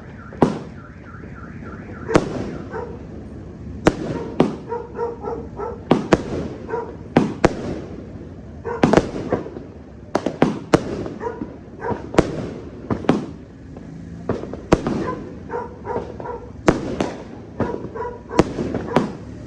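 A 330-shot fireworks cake firing: a steady string of sharp shots and booms, about two or three a second, with short pauses between volleys.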